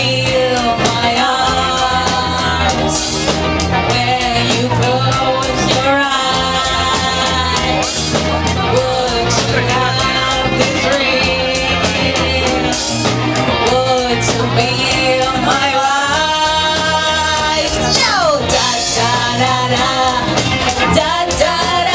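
A rock band playing a song live, with a lead vocal over the band.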